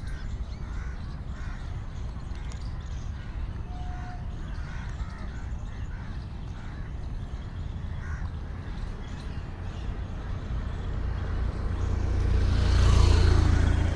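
Crows cawing repeatedly over a steady low rumble. Near the end a loud rushing noise swells up and drowns them.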